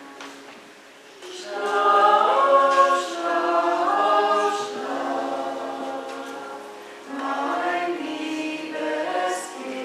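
Church choir singing, growing louder about a second in.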